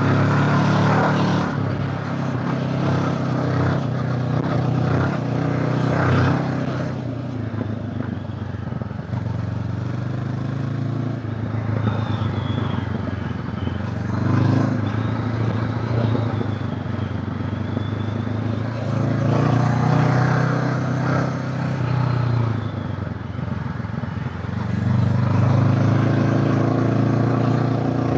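Honda CB500X's parallel-twin engine pulling the bike along a climbing dirt road, its revs swelling and easing several times with throttle and gear changes, under wind and road noise.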